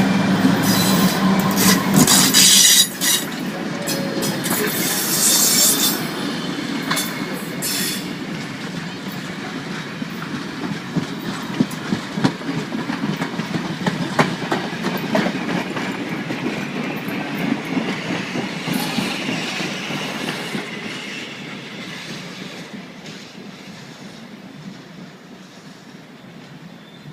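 A train rolling past: steel wheels squeal high in the first few seconds, then clack in a steady rhythm over the rail joints as the cars go by. The sound fades away near the end.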